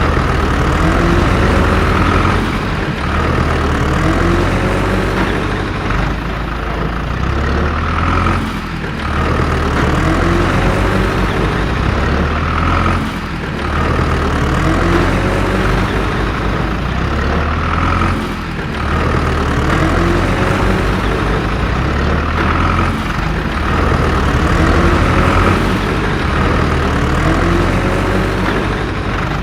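Truck or tractor engine sound effect running steadily, looped so that the same pattern repeats about every four and a half seconds.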